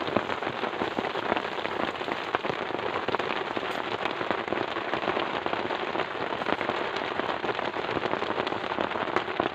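Heavy rain falling steadily, a dense patter of drops striking a nearby surface.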